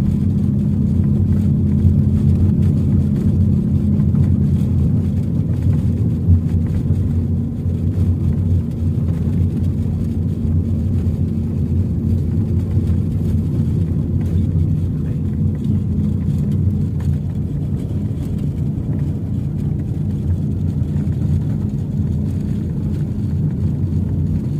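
Car engine and road noise heard from inside the cabin while driving: a steady low hum with a few held tones that shift slightly about five seconds in.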